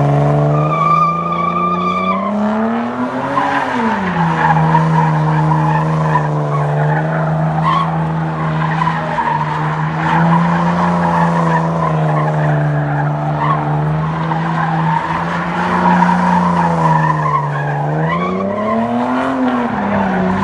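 Car engine held at high revs during a burnout, its note rising and dropping back about three seconds in and again near the end, with the tyres spinning and squealing against the pavement.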